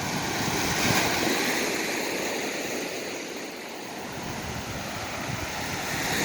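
Ocean surf washing ashore, a steady rush that swells about a second in, eases off, and builds again near the end.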